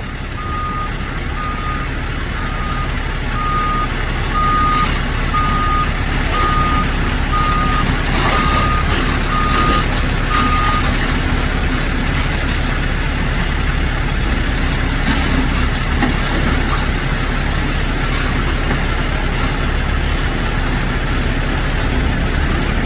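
Heavy truck's diesel engine running steadily while its back-up alarm beeps about once a second, about a dozen beeps that stop roughly halfway through, signalling the truck is reversing.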